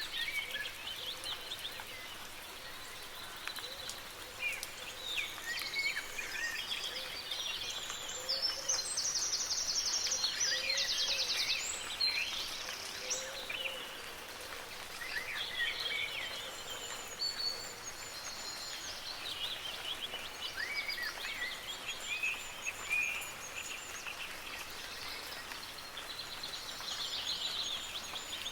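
Several songbirds chirping and warbling over a steady soft hiss of light rain, with a fast, high trill for a few seconds about a third of the way in.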